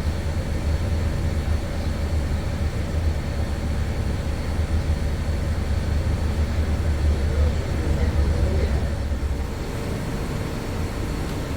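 Steady low rumble of a moving motor vehicle, easing slightly about nine seconds in.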